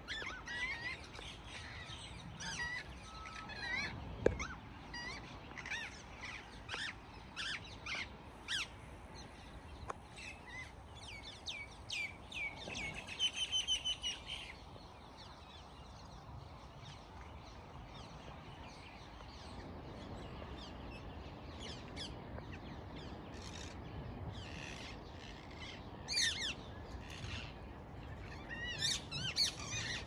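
Several birds chirping and calling in short, repeated notes, with a quick run of rapid notes about thirteen seconds in; the calls thin out midway and pick up again near the end, over a low steady background rumble. A brief soft thump about four seconds in.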